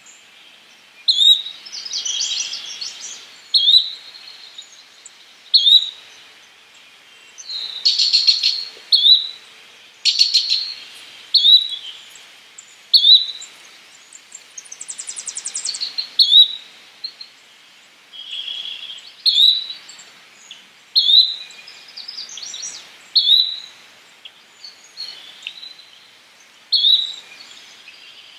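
Yellow-bellied flycatcher repeating a short, rising whistled call every couple of seconds. Other bird chirps, buzzy notes and a brief trill fall between the calls.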